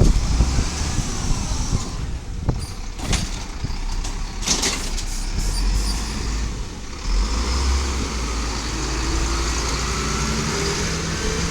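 Diesel engine of a 1999 Volvo automated side-loader garbage truck running, with a few sharp clatters and a brief hiss of air in the first half. About seven seconds in the engine note gets louder and a whine slowly climbs in pitch, as the truck pulls away or works its hydraulics.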